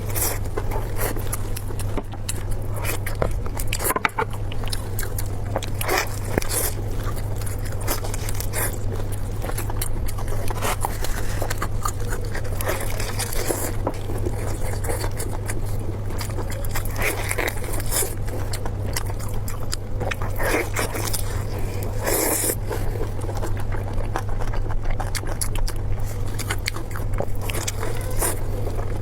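Close-miked eating: a run of wet bites, chewing and soft crunches with utensil scrapes, over a steady low hum.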